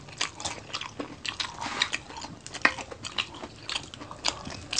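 Close-up crunching and chewing of crisp deep-fried dynamite rolls: many short, irregular crackles of the fried wrapper being bitten and chewed.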